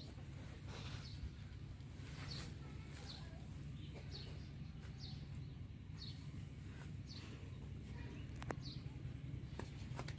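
Small bird chirping repeatedly outdoors: short, high, falling chirps roughly one to two a second over a steady low rumble, with one sharp click about eight and a half seconds in.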